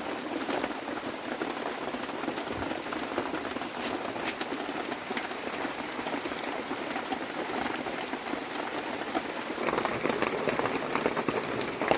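Rain falling on a surface: a steady hiss dotted with many small drop ticks, getting a little busier about ten seconds in.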